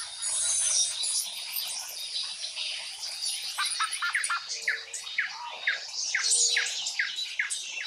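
Birds chirping and calling, with high twittering throughout. From about three and a half seconds in comes a regular run of short falling chirps, two or three a second.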